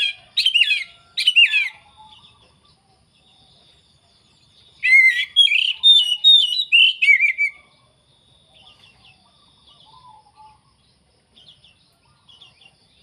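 Oriental magpie-robin (kacer) singing loudly: three sharp whistled phrases at the start, then a longer run of quick varied notes about five seconds in, with faint scattered notes afterwards.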